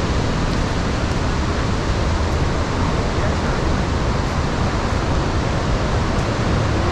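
Steady, loud roar of the Iguaçu Falls: water pouring down the cataracts, an unbroken rushing noise.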